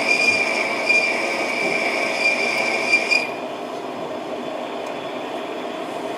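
Metal lathe parting off a workpiece: the parting tool in the cut gives a steady high-pitched squeal, which stops about three seconds in, leaving the lathe running.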